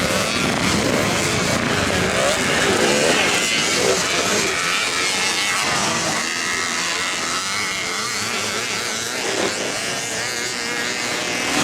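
Motocross dirt bikes racing, their engines revving up and down; the engine sound eases somewhat after about five seconds.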